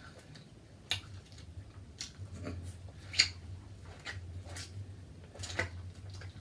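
Close-miked mukbang eating sounds: about six sharp clicks and cracks, spaced irregularly, from the eater's mouth and the seafood being handled, over a low steady hum.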